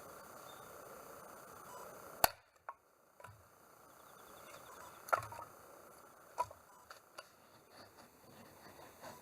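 A few sharp cracks or knocks: one loud one about two seconds in, then several fainter ones spaced a second or so apart over faint background hiss.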